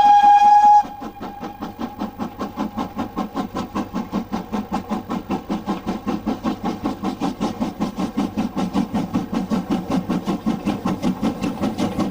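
Steam locomotive whistle ending sharply a moment in, then the locomotive's exhaust beats, an even chuff of about five beats a second that grows louder as the engine works past.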